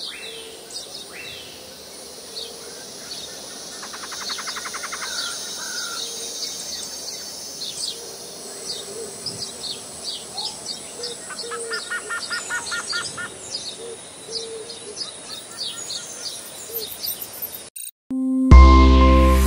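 Garden birds chirping and calling, many short chirps with a couple of rapid trills, over a steady high-pitched background drone. Near the end the sound drops out briefly and loud music starts.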